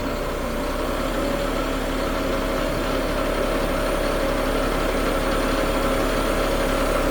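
Steady hydraulic hum and whine of a HIAB 095 knuckle-boom crane being folded in, driven off the running Ford F750's CAT 3126B diesel through the PTO.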